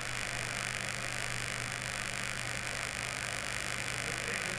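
Steady electrical mains hum under a constant hiss, the background noise of the race broadcast's audio, with no distinct event.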